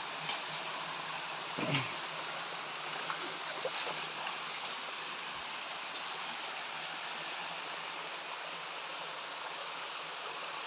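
Small jungle waterfall and its stream: steady rushing of falling water, with a few faint clicks and a short falling sound just under two seconds in.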